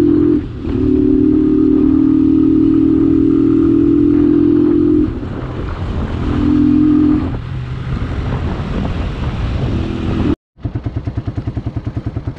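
Motorcycle engine running under way at steady revs, easing off about five seconds in and picking up again briefly. Near the end the sound cuts out for a moment, then an evenly pulsing engine sound follows.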